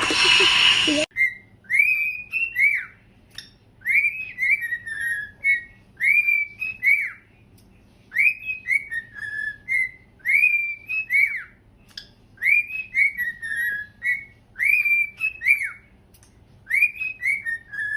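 A pet bird whistling the same short tune over and over: a phrase of quick rising and falling notes roughly every two seconds, with short pauses between phrases.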